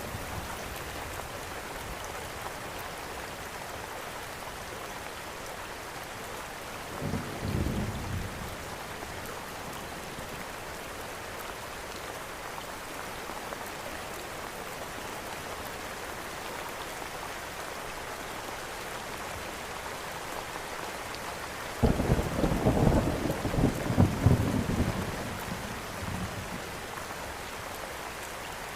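Steady rain with two low rolls of thunder: a short one about seven seconds in, and a louder one that starts suddenly a little past twenty seconds and rumbles on for about four seconds before fading.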